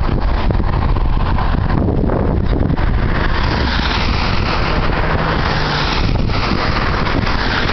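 Steady rushing noise of a car driving, tyre, engine and wind noise together, growing a little brighter about three seconds in.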